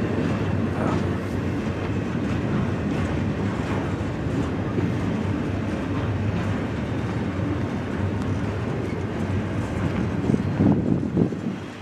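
Double-stack intermodal freight train rolling past, a steady rumble of its container well cars going by with a few louder knocks near the end.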